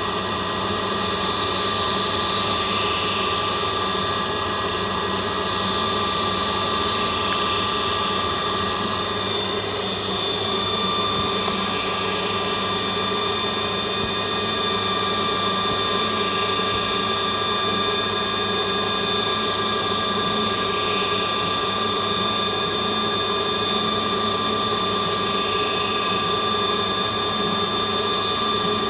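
CNC lathe running steadily as it turns a chisel handle: a constant whine from the machine's drives with a rough cutting noise beneath, dipping briefly about ten seconds in.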